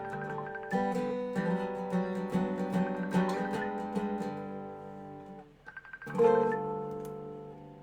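Dobro resonator guitar being played, its ringing notes thinning out and fading. After a brief gap, one last chord is struck about six seconds in and left to ring out.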